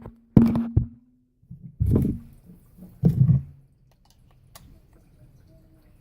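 Dull knocks and thumps of needle-nose pliers and rifle parts being handled while the piston end piece is unscrewed, several in the first three seconds or so, then faint handling noise.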